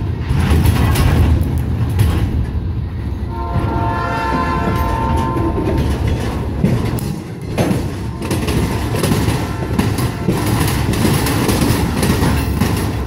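Empty railroad flatcars rolling past close by: a steady low rumble of steel wheels on rail with frequent clicks and clatter. A set of steady tones sounds over it at the start and again from about four to six seconds in.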